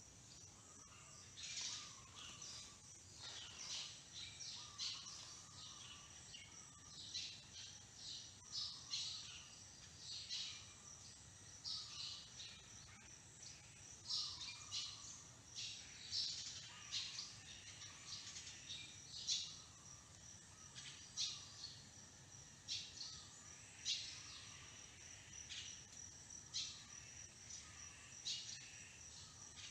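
Birds chirping in short, irregular, high-pitched calls, several a second at times, over a faint steady background.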